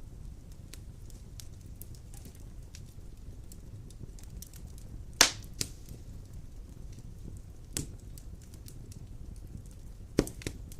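Large wood logs burning in a stone fireplace: a steady low rumble of flame with scattered small crackles and a few sharp pops. The loudest pop comes about five seconds in, with others near eight and ten seconds.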